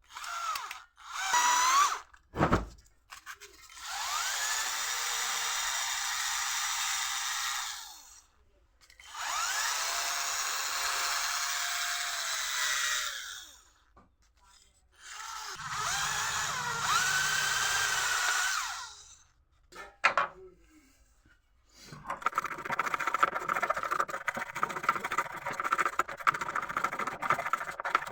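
Small power tool run in three separate bursts of about four seconds each, each spinning up and winding down, followed near the end by a continuous scratchy rasping.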